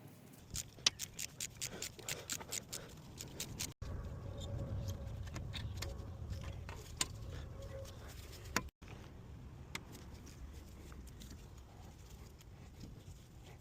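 Hand tools working on a car's rear brake: a quick run of sharp metallic clicks for about three seconds, then steady rubbing and scraping with scattered knocks.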